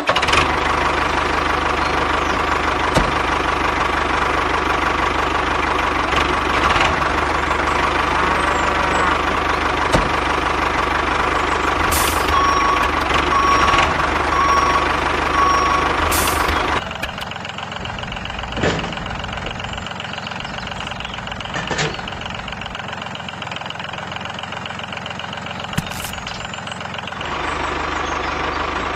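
A tractor-type engine running steadily at idle, with four short reversing-style beeps around the middle. About halfway through it changes to a quieter, duller engine sound, which grows louder again near the end.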